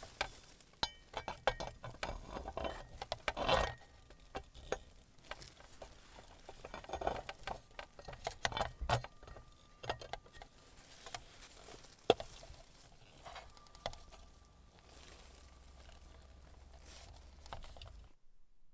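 Irregular clicks, taps and rustling from handling camp cookware and utensils, with a sharp clink about twelve seconds in. The sound stops abruptly near the end.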